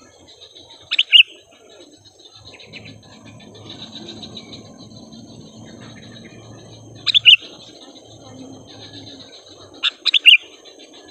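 Sooty-headed bulbuls calling: short, loud chirping phrases about a second in, around seven seconds, and twice in quick succession near the end, over faint continuous chirping of other birds.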